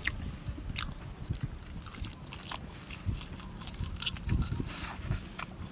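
Close-up eating sounds of a man chewing food with his mouth near the microphone, with irregular small clicks and smacks throughout as he picks apart cooked fish by hand.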